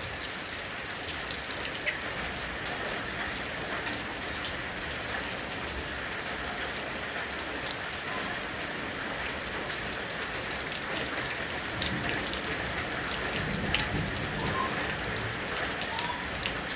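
Heavy rain falling steadily, with individual drops ticking sharply on a surface. A low rumble of distant thunder builds in the second half.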